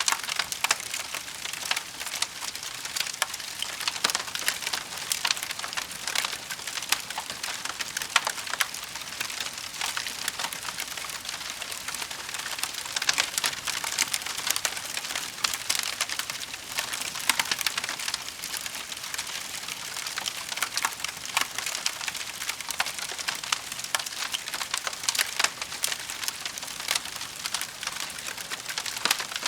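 Wood fire burning in a fireplace, a dense, constant crackle of many small snaps and pops.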